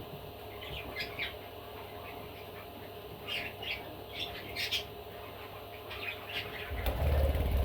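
Pet budgerigar giving short, scattered squawks and chirps. Near the end a low rumbling thump, louder than the calls, comes in.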